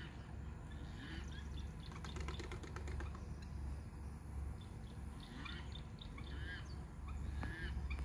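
Birds giving short, scattered calls, with a quick run of clacks about two seconds in, over a steady low rumble.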